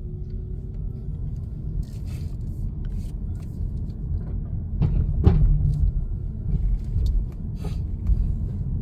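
Car driving, heard from inside the cabin: a steady low road and engine rumble, with a few short knocks, the loudest about five seconds in.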